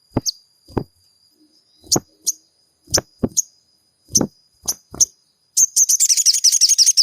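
Sogon (crimson sunbird) calls from a lure recording: short, sharp chirps every half second to a second, then a rapid twittering trill near the end, the loudest part. A steady thin high whine runs underneath.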